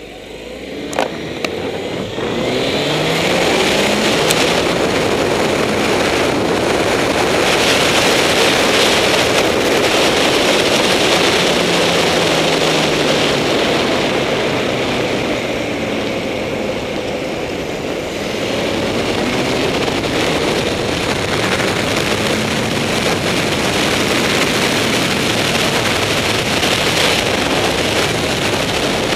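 Honda CBR954RR sportbike's inline-four engine pulling away and accelerating hard on track, revs climbing again and again through the gears. It eases off a little about halfway through, then builds again.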